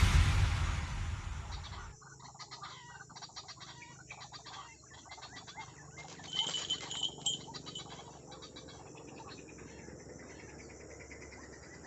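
Background music fades out over the first two seconds, leaving faint outdoor ambience. About six seconds in, a short, high-pitched bird call sounds for about a second.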